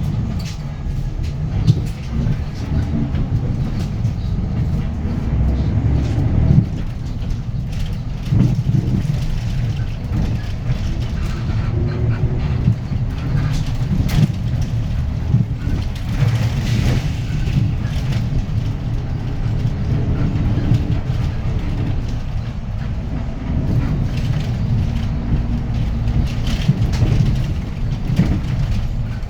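Hyundai Green City city bus's D6GB six-cylinder diesel heard from inside the cabin while driving: a low engine drone whose pitch rises and falls as it pulls through the gears of its manual gearbox, with road rumble and small rattles throughout.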